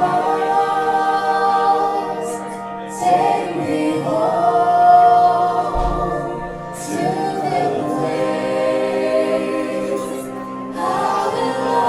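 Music with a group of voices singing long held notes together, the chord changing every few seconds.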